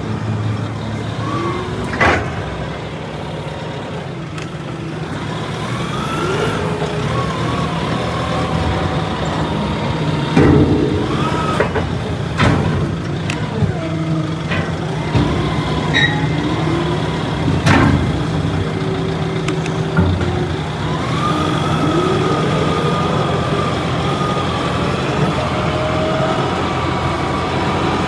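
Truck engine running steadily, with several sharp knocks and bangs over it and faint wavering whines.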